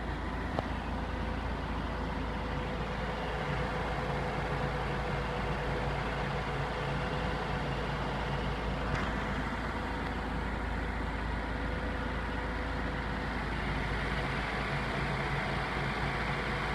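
Mercedes-Benz W202 C180's four-cylinder petrol engine running steadily at an even speed, with a faint click near the start and another about nine seconds in.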